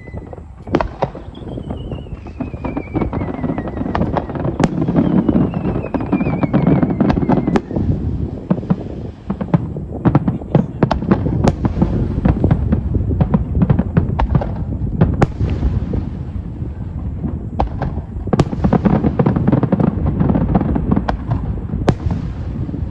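Fireworks display: a dense run of bangs and crackling bursts over a continuous rumble, with falling whistles in the first several seconds.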